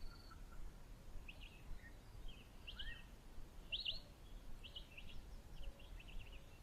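Wild birds chirping faintly in the bush: short, sharp high notes repeated every half second or so, over a low steady background hiss.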